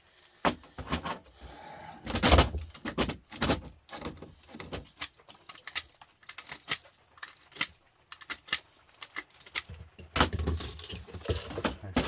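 Scrap metal pieces from a radiator teardown clinking and rattling as they are handled and sorted: many irregular light clicks and knocks, with louder clatters about two seconds in and again near the end.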